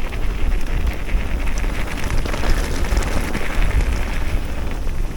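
Electric mountain bike rolling downhill over a rough track: tyre crackle and rattle over a heavy rumble on the microphone.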